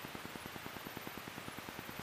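Cessna 172's piston engine and propeller at takeoff-climb power, heard inside the cabin as a steady drone of rapid, even pulses.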